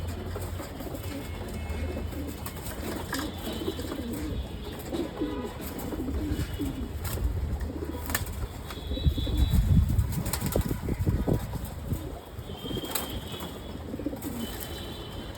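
Pigeons in a loft cooing, with short low coos repeated throughout and a few clicks. A louder low rumble about nine to eleven seconds in.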